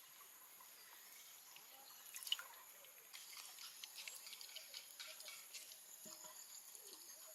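Near silence with faint scattered ticks and taps, and one sharper click about two seconds in.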